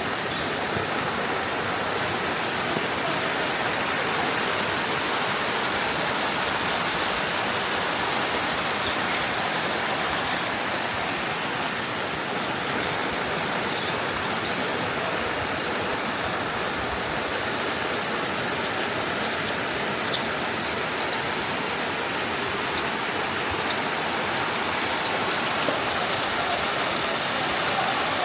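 Steady rush of flowing water from a mountain stream, an even noise with no change throughout.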